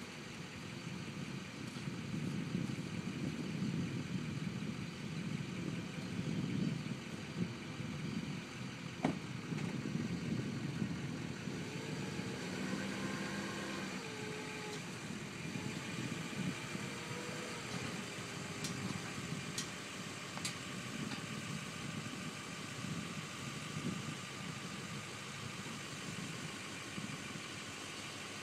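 Airboat's 502 carbureted engine running steadily at idle, with a few brief shifts in pitch in the middle.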